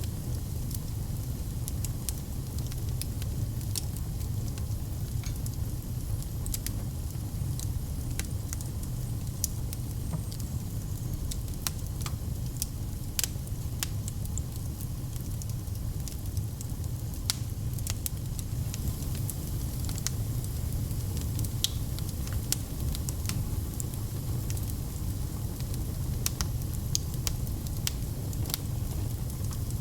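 Log fire in a fireplace crackling, with frequent irregular small pops and snaps over a steady low rumble of the flames.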